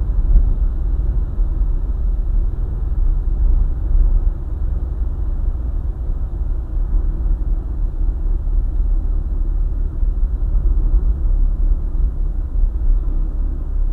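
Car driving along a highway: a steady low rumble of road and engine noise, with no changes.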